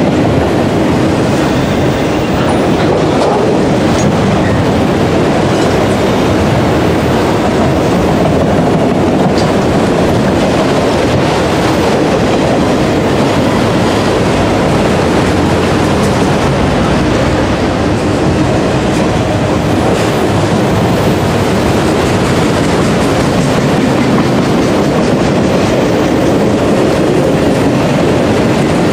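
Autorack freight cars rolling past at close range: a loud, steady rumble and clatter of steel wheels on rail.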